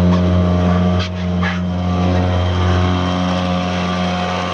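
Tohatsu M3.5B2 two-stroke 3.5 hp outboard motor running steadily under load, pushing a heavy cabin boat into the wind; its carburettor float needle has just been replaced. Two short rushes of noise come about a second in.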